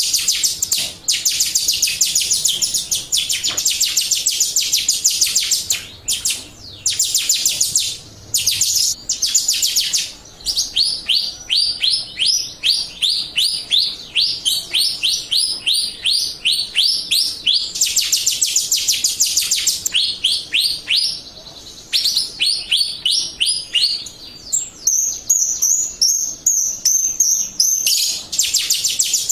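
Jalak Rio bird singing continuously: fast runs of rapid high chirps alternate with series of separate, down-sweeping whistled notes about three a second, broken by a few brief pauses.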